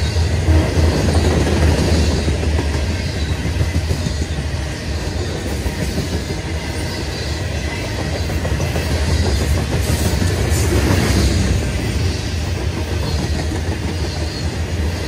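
Freight train of loaded covered hopper cars rolling past, steel wheels on the rails making a steady rumble.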